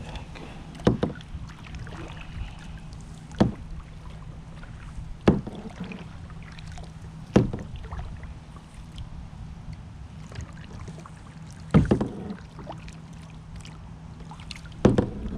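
Six sharp knocks on a kayak, spaced two to four seconds apart, over a steady low hum.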